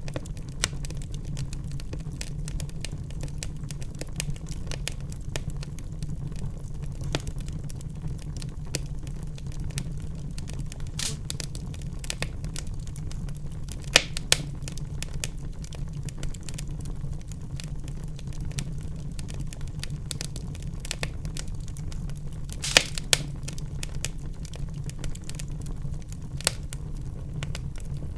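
Wood fire burning in a fireplace, crackling steadily over a low rumble of flame, with many small irregular snaps and a few louder pops, the sharpest about 14 and 23 seconds in.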